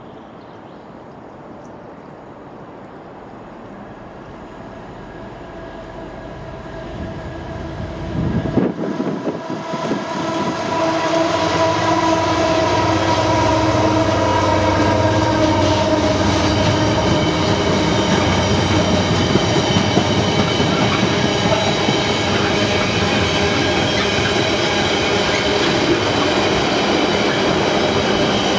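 Freightliner Class 70 diesel locomotive approaching and passing with a container freight train, growing louder to a peak about nine seconds in. Then the long rake of container wagons rolls past steadily, with ringing steady tones from the wheels on the rails.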